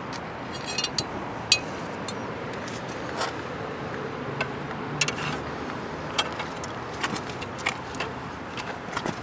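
Scattered light metallic clicks and clinks, irregularly spaced, the loudest about a second and a half in, over a steady background noise.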